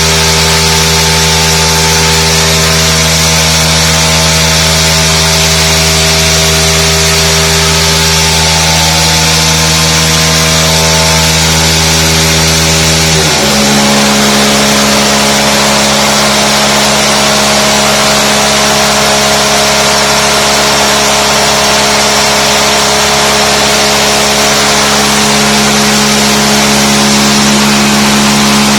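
Two-stroke petrol engine on a lab test rig running steadily under load. Its note changes abruptly about thirteen seconds in, consistent with a step in the applied load.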